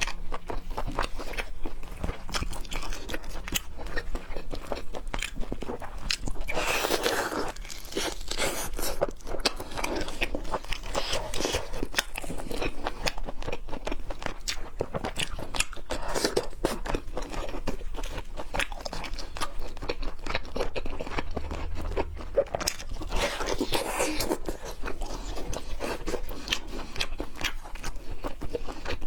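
Close-miked chewing and biting of raw seafood: continuous crunching with many irregular, wet mouth clicks.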